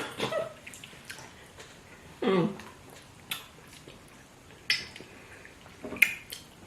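Close, wet eating sounds of fufu and soup eaten by hand: scattered lip smacks, squishes and small clicks. There is a short falling mouth or throat sound about two seconds in, and sharper smacks a little before five seconds and at about six seconds.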